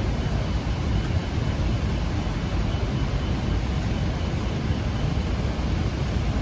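Steady low rumble, with the yacht's depth-sounder alarm beeping faintly and high-pitched in the first couple of seconds: the alarm is set off because the depth under the keel is dropping.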